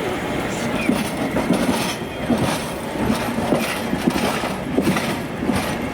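Toyama Chihō Railway city tram (streetcar) running on its street track, its wheels clattering and clicking irregularly over rail joints and points under a steady rumble.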